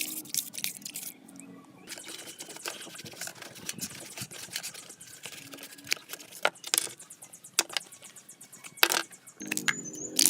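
A series of irregular clicks and light taps, the loudest about two-thirds of the way through and near the end. Faint background music is heard at the start and comes back near the end.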